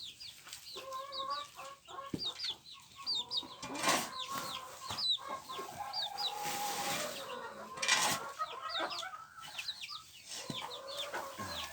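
Chicks peeping continually in quick, high chirps, with a mother hen clucking and calling among them. Two short noises cut across the chirping, about 4 and 8 seconds in.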